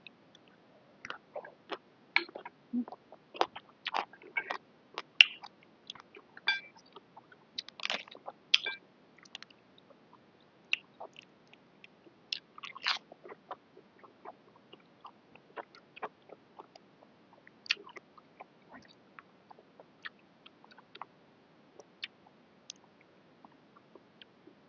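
A person chewing and biting a mouthful of boat noodles close to the microphone: irregular sharp mouth clicks and smacks, busiest in the first half and sparser towards the end.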